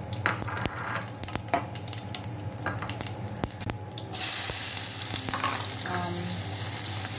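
Cumin seeds frying in hot oil in a nonstick pan, crackling with sharp irregular pops. About four seconds in, chopped onion is tipped into the pan and a loud steady sizzle takes over.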